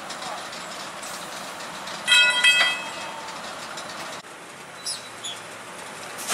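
A horn sounds in two or three quick toots about two seconds in, over a steady background noise that drops suddenly a little past the middle. Two short high chirps follow near the end.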